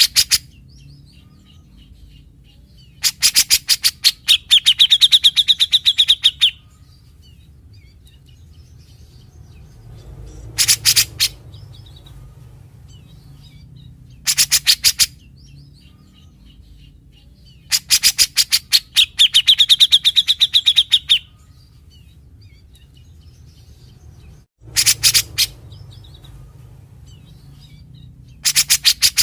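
Cucak jenggot (grey-cheeked bulbul) singing its harsh 'besetan' phrases: bursts of fast rattling notes. Two long runs of about three seconds carry a ringing high note through them, and several short rattles of under a second fall between them.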